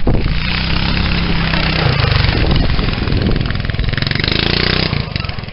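Go-kart's 11 HP small engine running under throttle, easing off about five seconds in.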